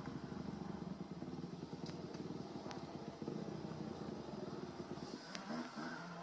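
Motocross bike engines running hard on the track, with the pitch rising and falling as the riders rev and shift near the end.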